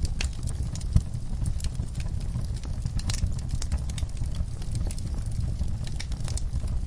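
Wood fire crackling in a fireplace: a steady low rumble of burning with irregular sharp pops and snaps, one louder pop about a second in.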